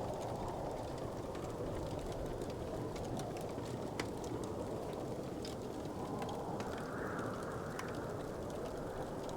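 Wood fire crackling: a steady low rush with scattered small pops and crackles, one sharper pop about four seconds in.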